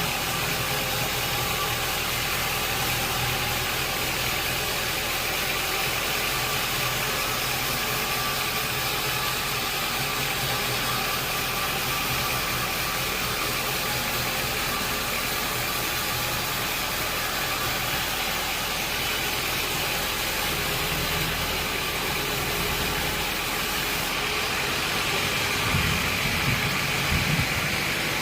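Sawmill machinery running steadily, a continuous mechanical hum and hiss with several steady tones, with a few low knocks near the end.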